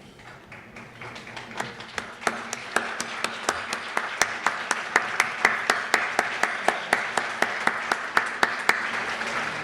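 Audience applause swelling up about a second in, with one pair of hands clapping close by in sharp, even claps, about four a second.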